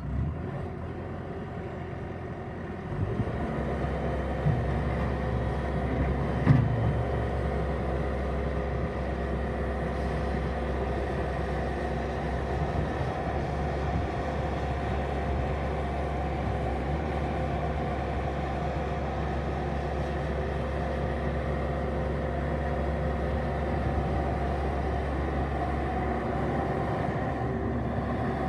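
Bobcat S650 skid steer's diesel engine running steadily just after starting, picking up speed about three seconds in, with a brief louder burst about six seconds in.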